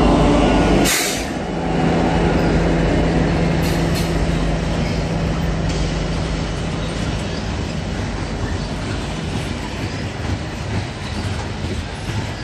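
Train rolling past, a steady rumble of wheels on the rails. A short sharp noise comes about a second in, then a low steady hum runs for several seconds under the rumble.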